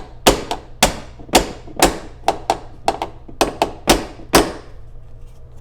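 A dozen or so sharp taps, about three a second, knocking the Corvette C3 door's striker post into a new position so the door latch will catch. The tapping stops about four and a half seconds in.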